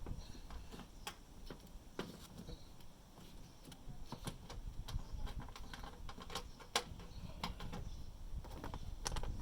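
Scattered light clicks and taps of hands and small tools working on the air conditioner's wiring connections, over a low rumble.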